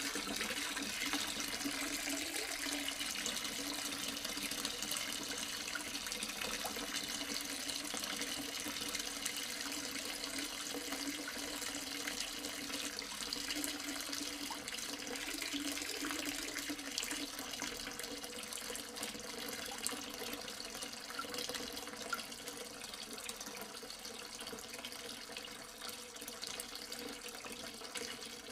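Water trickling and splashing steadily down a small tabletop waterfall fountain, growing slightly quieter near the end.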